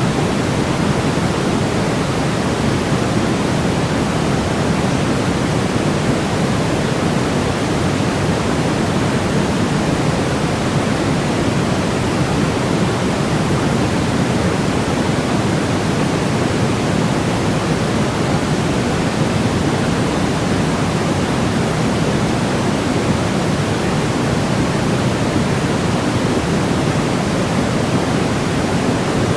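Steady, even white noise: a constant, deep, rushing hiss.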